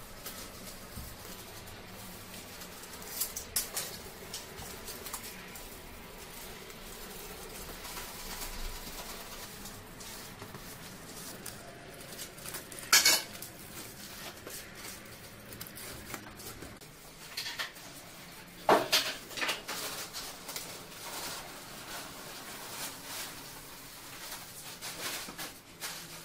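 Scattered clinks and knocks of hard objects, the loudest a sharp knock about 13 seconds in and a few more near 19 seconds.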